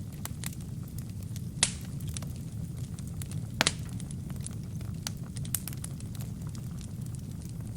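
Wood fire burning in a fireplace: a steady low rumble of flames with scattered crackles and pops, two louder pops about 1.6 and 3.6 seconds in.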